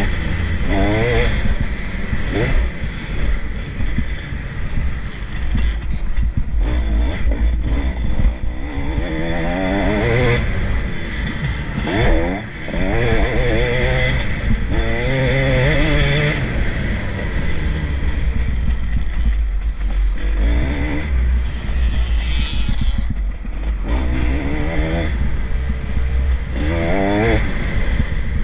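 Motocross bikes racing on the track, engines revving up and falling away again and again as riders accelerate and shut off through the course, over a constant low rumble.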